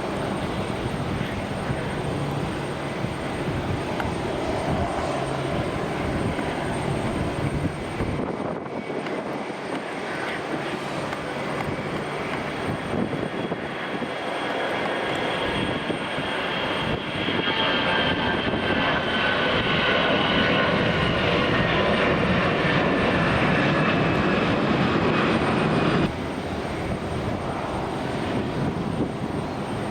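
Jet airliner's engines heard as it passes the runway, growing louder with a high whine that glides down in pitch. The loud part cuts off suddenly a few seconds before the end.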